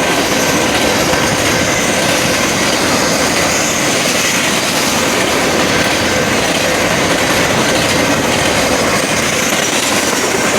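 A train's cars rolling past at close range: a loud, steady noise of wheels on rails, with no break.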